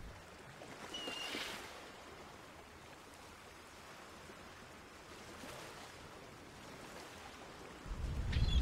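Faint, steady wash of water ambience, with a short high chirp about a second in and another near the end; a loud low rumble swells in near the end.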